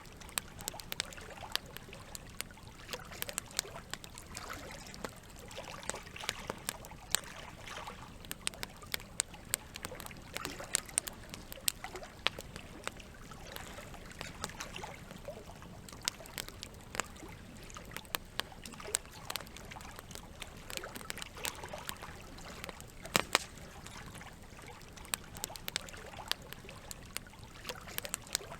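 Wood fire crackling, with frequent sharp pops and snaps, a couple of them louder about two-thirds of the way in, over a steady trickle of flowing water.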